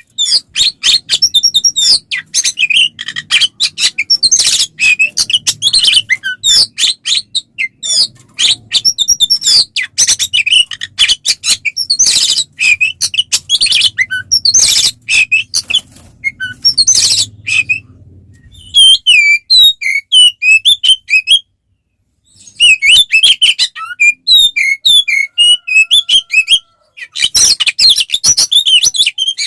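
Oriental magpie-robin (kacer) singing loudly in a fast, unbroken stream of varied chirps, whistles and harsh notes, with a brief pause about two-thirds of the way through; this is the bird's aggressive fighting song ("tarung").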